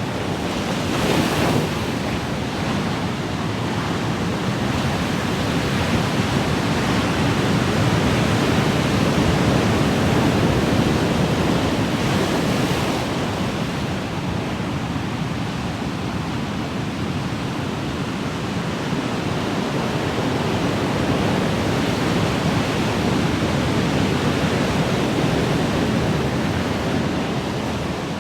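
Ocean surf: waves breaking and washing in a continuous rush that swells and eases slowly, with a brighter, hissier wash about a second in and again around twelve seconds.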